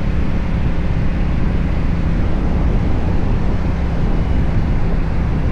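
Benda Napoleon 500 motorcycle's engine running at a steady, unchanging pace, with a steady rush of noise over it.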